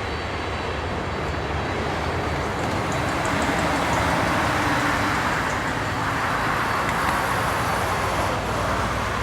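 Steady engine rumble of a Boeing 767-300ER jetliner, swelling slightly a few seconds in and easing off near the end.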